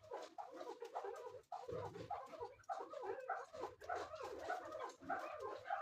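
Chukar partridges calling: a continuous, rapid run of short notes.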